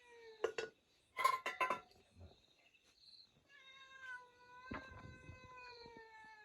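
A cat meowing in long, drawn-out calls that slowly fall in pitch: the tail of one call at the start, and a long one in the second half. A brief clatter of knocks about a second in.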